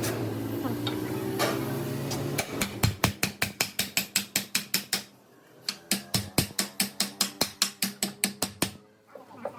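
Rapid ratcheting clicks, about six or seven a second, in two runs with a short pause about five seconds in, after a steady low mechanical hum in the first couple of seconds.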